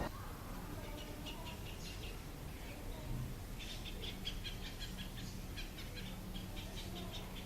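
Faint, quick chirps of small birds, a few about a second in and then a busier run of rapid chirping over a low background hum.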